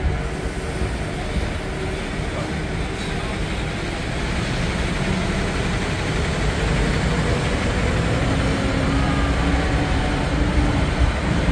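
Ride noise aboard a moving parking tram: a steady rumble of engine and wheels that grows a little louder over the second half, with a faint rising whine near the end.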